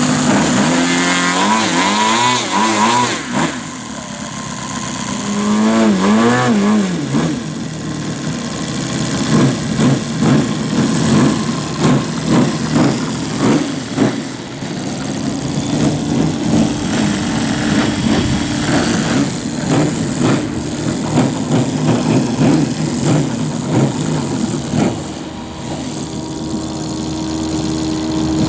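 YS TZ240 four-stroke boxer engine of a large RC model plane, revved up and down in two quick throttle blips in the first seven seconds, then running unevenly at changing throttle.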